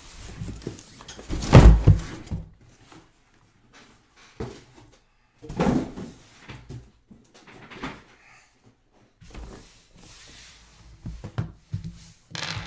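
Cardboard trading-card boxes and packaging being handled on a table: irregular knocks and rustling, with the loudest thump about one and a half seconds in and another about five and a half seconds in.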